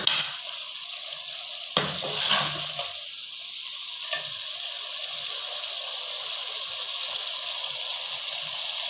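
Chicken and masala gravy sizzling steadily in a metal pot while a metal ladle stirs it. The ladle knocks against the pot twice in the first two seconds and scrapes briefly before the sizzling carries on alone.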